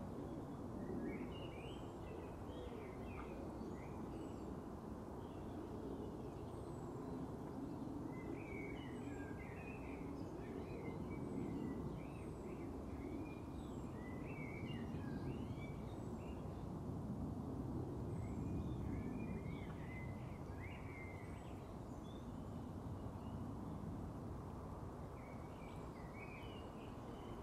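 Quiet background ambience: a steady low noise with small birds chirping on and off, in short runs of chirps.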